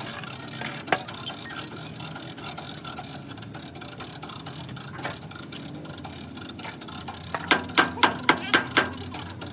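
Background workshop noise with a few isolated clicks, then a quick run of about eight sharp knocks, roughly five a second, near the end.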